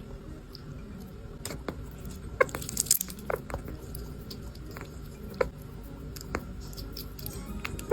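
Small pet chewing and crunching a snack close up: irregular sharp crunchy clicks, busiest a few seconds in.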